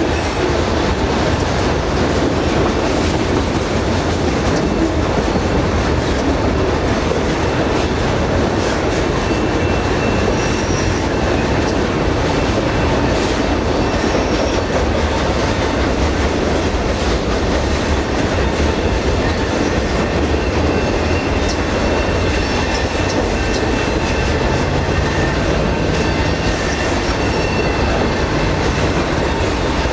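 Enclosed autorack freight cars rolling past at steady speed: a continuous loud rumble and rattle of steel wheels on the rails, with a few faint high-pitched wheel squeals.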